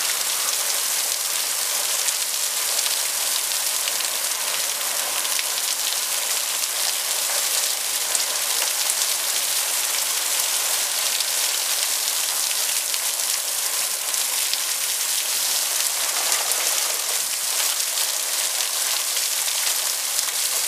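Thunderstorm rain falling steadily: a dense, even hiss flecked with the ticks of single drops.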